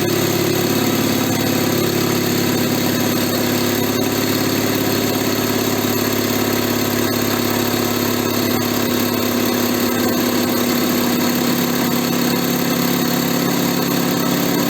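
SO-7B piston air compressor, driven by an electric motor, running steadily at full speed just after start-up and pumping air into its receivers.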